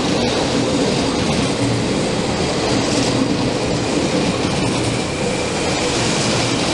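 Passenger coaches rolling past close by: a steady rumble of wheels on rails, with a few light clicks.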